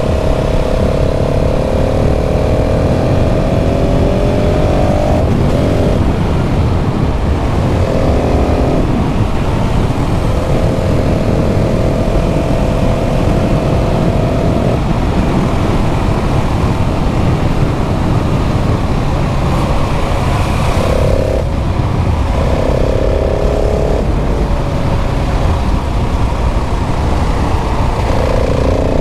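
KTM 690 SMC R's single-cylinder four-stroke engine on its stock exhaust, pulling through the gears: the note climbs, breaks off at each shift or roll-off and picks up again, several times. Heavy wind rush on the microphone underneath.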